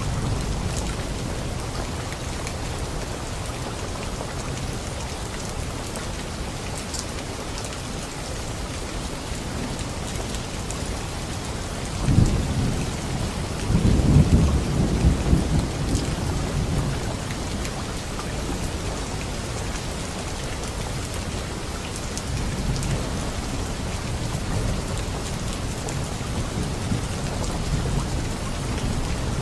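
Steady heavy rain with thunder rumbling low beneath it, a louder roll of thunder swelling about halfway through and a fainter rumble later, with the odd sharp drip standing out.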